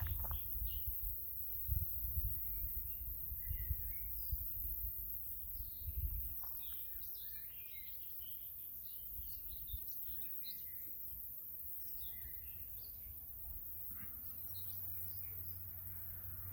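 Several small birds chirping and singing in short scattered calls, with low rumbling gusts underneath during the first six seconds or so.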